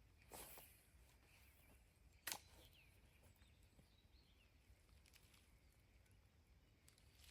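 Near silence outdoors: faint background hiss with a few faint bird chirps, and a single sharp click about two seconds in.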